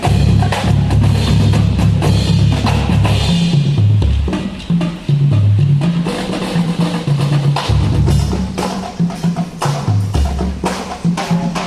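Marching band playing, with drums and percussion striking throughout over a low bass line that steps from note to note.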